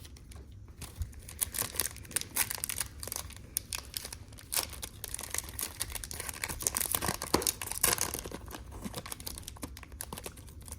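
A foil trading-card pack wrapper being crinkled and torn open by hand, with irregular crackling that runs on for several seconds.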